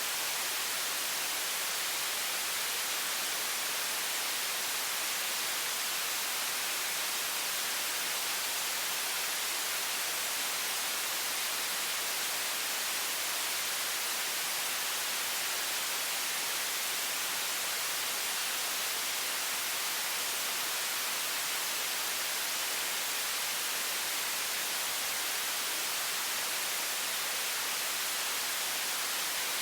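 High-pressure water faucet stream: a steady, even, bright hiss with little low rumble and no change in level.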